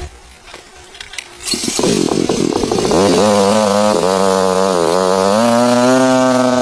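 A small engine starts about a second and a half in, its speed wavering up and down before settling to a steady run.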